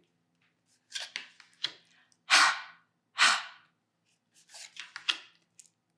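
A voice making the phonics sound for the letter H: two breathy, unvoiced "h" puffs of air about a second apart, with softer mouth clicks and breaths around them.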